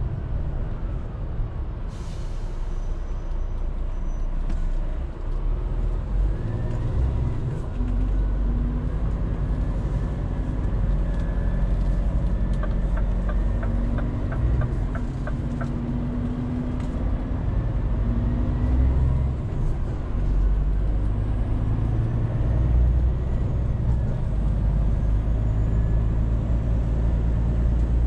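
Scania truck driving: diesel engine running with road noise. A short air hiss sounds about two seconds in, and a quick run of ticks, about three a second, sounds midway.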